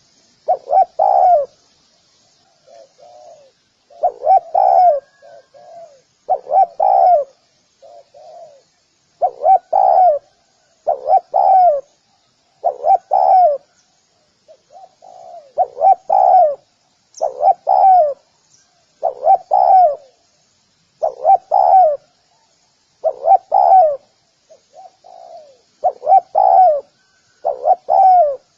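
Spotted dove cooing over and over, in loud paired coos with softer notes between them. Faint high chirps from other small birds sit behind it.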